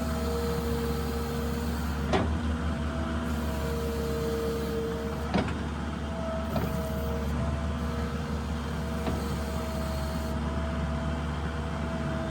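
New Holland LS170 skid steer's diesel engine running steadily, with a whine that steps back and forth between two pitches. There are four sharp knocks, two of them loudest, at about two and five and a half seconds in.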